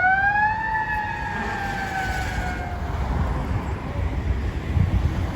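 Fire apparatus siren sounding one short wind-up that peaks and then slowly falls in pitch as it fades, over a steady low engine rumble.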